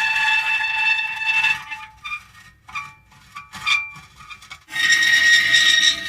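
Metal creaking. A long, steady squeal dies away, then come a few short creaks, and then another long squeal starts near the end.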